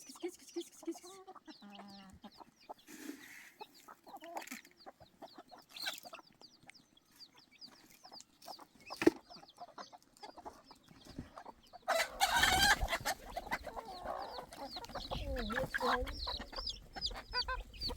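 Farmyard chickens clucking, with many short high chirps throughout and a louder stretch about twelve seconds in.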